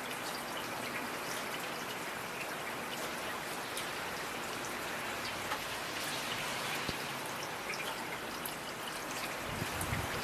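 Steady rainfall with individual drops tapping and dripping close by. A low rumble starts near the end.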